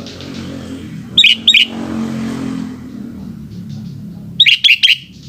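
Sooty-headed bulbul calling: two loud, clear notes about a second in and three more near the end, each sweeping down in pitch. A low hum swells under them in the middle.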